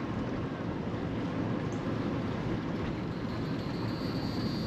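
Steady low rumbling noise with no clear pattern; a faint thin high tone comes in near the end.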